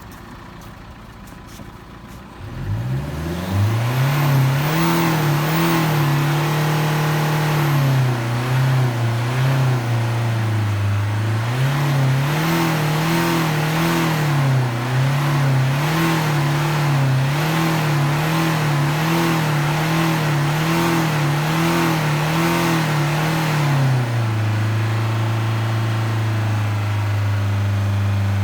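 Car engine revved from idle during a hydrogen carbon-cleaning treatment. It is held at raised revs, then blipped rhythmically about once a second, and about 24 s in it drops back to a steady idle.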